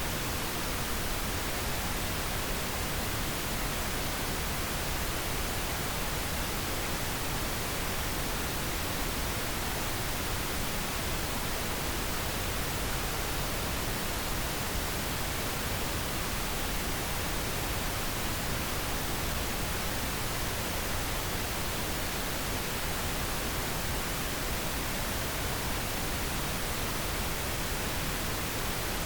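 Steady pink noise: an even, unchanging hiss spread across all pitches, with no variation or events.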